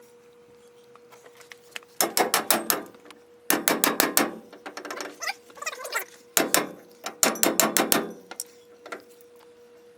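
Ratchet wrench clicking in four short bursts of quick, even clicks, over a faint steady hum.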